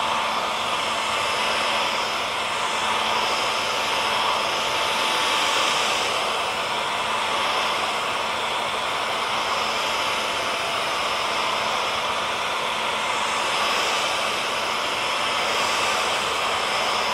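Electric hair dryer running steadily on one setting: a constant airy rush with a thin steady whine from its fan motor, played as white noise to soothe a baby to sleep.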